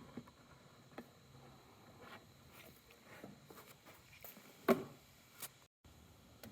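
Faint, irregular clicks and gurgles of a plastic jug of engine oil being poured slowly into a zero-turn mower's engine fill opening, with one sharper knock about three-quarters through. The sound cuts out completely for a moment near the end.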